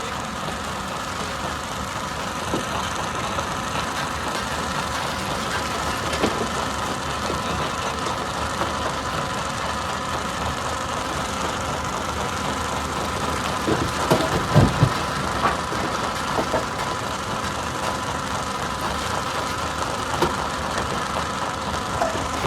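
Stone crusher running steadily with a constant mechanical hum, with scattered knocks of rock being crushed and a louder cluster of heavy clunks a little past halfway.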